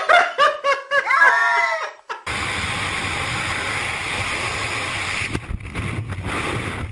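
A high voice screaming in short, rising and falling cries that stop about two seconds in. After a brief gap, a steady rushing noise with a low hum follows.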